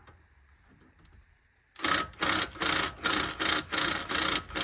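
Impact wrench (rattle gun) fired in about eight short bursts, roughly three a second, starting about two seconds in, trying to undo a suspension fastener.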